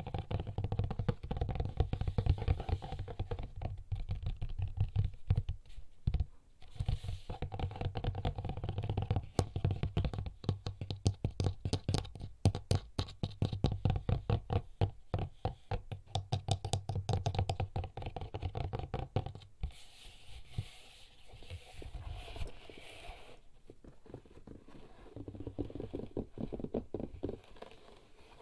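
Fingers tapping and scratching on a HERZ leather bag: quick runs of fingernail taps with softer thuds, mixed with stretches of scratching on the leather.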